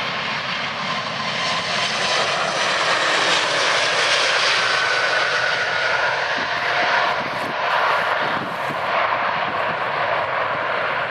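Jet airliner's engines running loud and steady, a dense rush of noise with a faint whine drifting in pitch.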